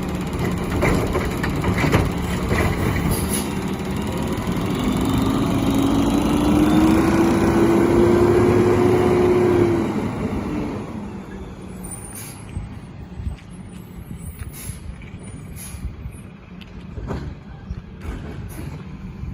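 McNeilus side-loader recycling truck working under load, its engine and hydraulics running hard with a whine that rises in pitch over several seconds. About ten seconds in it drops away to a quieter run, with scattered clunks and knocks.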